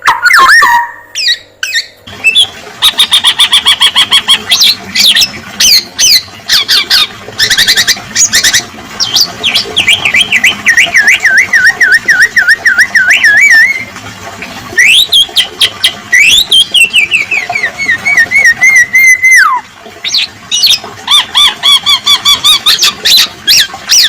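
Male black-naped oriole singing a loud, varied song that mixes fast runs of repeated sharp notes and trills with long whistles. One whistle wavers as it slides down, and another swoops up and then falls away before cutting off.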